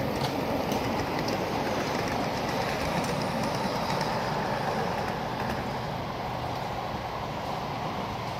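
Ride-on scale steam train's cars rolling past on the small track: a steady rumble of wheels on rail with a few clicks over the rail joints, easing off as the train moves away.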